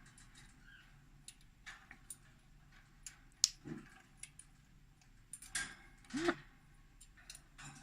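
African grey parrot making scattered clicking sounds, with a few short calls, the loudest a brief arching call about six seconds in.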